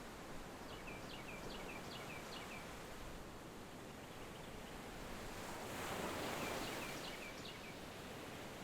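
Outdoor ambience with a bird calling in two runs of short chirps, each dropping in pitch, about three a second. Under it is a steady background hiss that swells and fades about six seconds in.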